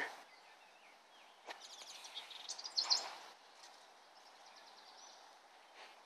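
Small birds calling from dense brush: a run of quick, high chirps and rattling trills about a second and a half in, loudest about three seconds in, then a fainter trill near the middle.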